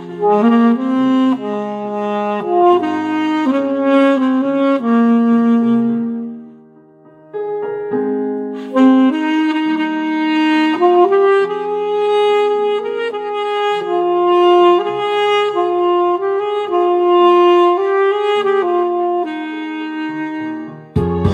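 Saxophone playing a slow song melody over a backing accompaniment, with a brief pause in the phrase about seven seconds in.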